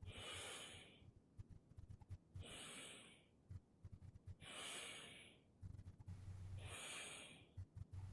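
Faint breathing: four slow breaths about two seconds apart, each lasting about a second, in rhythm with a repeated exercise movement.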